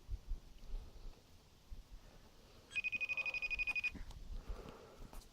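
A smartphone's outgoing-call ringing tone through its speaker: a high, rapidly pulsing tone lasting about a second, heard once about three seconds in. The call is ringing unanswered.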